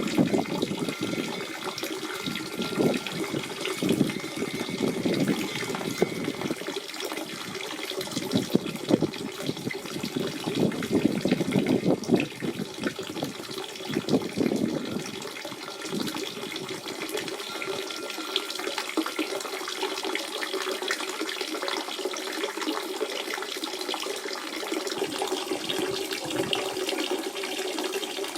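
Natural spring water running, a continuous flow with irregular small splashes. The deeper gurgle thins out a little past the middle.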